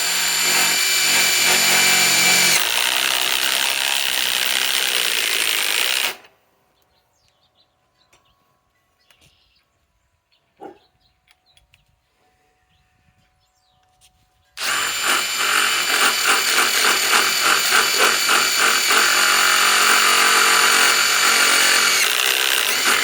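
Ryobi PSBIW25 cordless compact impact wrench running under load twice, driving a lag screw into wood. The first run lasts about six seconds, with its pitch dropping a little a couple of seconds in. After a quiet gap of about eight seconds the second run starts and pulses with a rapid, even rattle.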